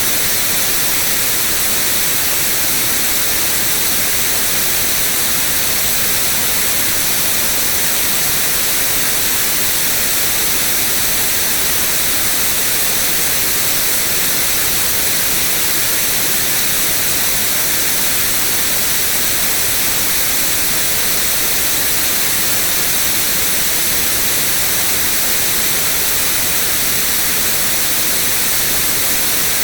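White noise: a steady, unbroken hiss that is brightest in the treble.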